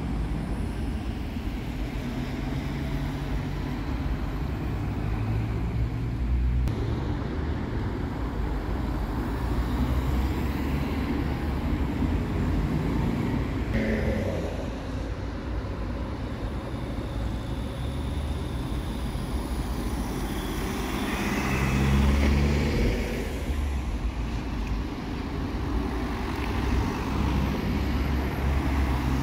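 Road traffic: cars driving past one after another in a steady rumble, with a louder vehicle passing about three-quarters of the way in.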